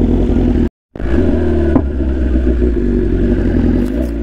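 BMW S1000RR inline-four engine running as the sportbike rides slowly through a turn, its note rising and falling a little with the throttle. All sound cuts out briefly just under a second in.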